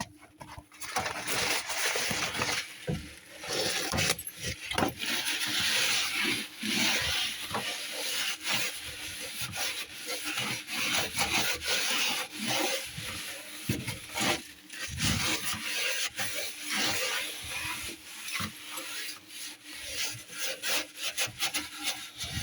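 Kitchen roll rubbing hard, in quick irregular strokes, over the rusted metal inside a microwave, wiping off loosened rust and dirt.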